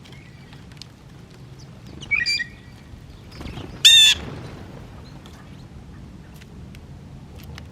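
Wild birds calling: a short call about two seconds in, then a loud, brief, harsh squawk about four seconds in.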